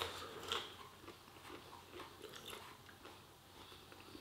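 A person chewing a mouthful of food, with soft wet mouth clicks. The two most distinct clicks come in the first second, and fainter ones follow.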